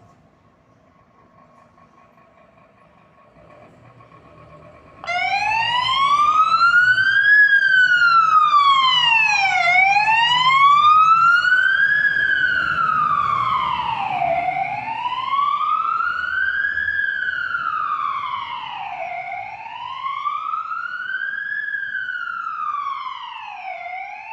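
Siren of a Scania P360 fire engine switched on suddenly about five seconds in, then a slow wail rising and falling about every five seconds, over the low running of the truck's engine.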